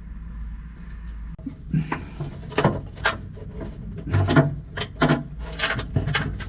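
Hands fumbling with fittings and hardware under an aircraft instrument panel, close to the microphone: a run of irregular clicks, knocks and scrapes starting about a second in, over a steady low hum.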